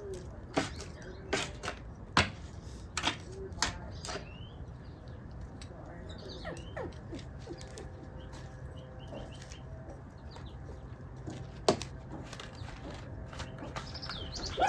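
A run of sharp clicks and taps over the first few seconds, with one more near the end, over faint high bird chirps and a steady low hum.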